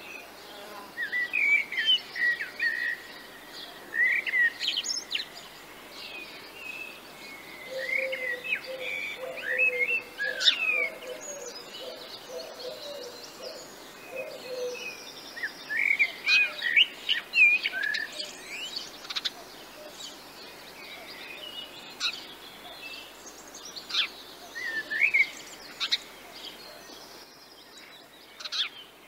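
Songbirds chirping and singing, with quick clusters of short, sliding calls coming and going throughout. A lower, wavering call runs alongside them for several seconds, from about a quarter to halfway through.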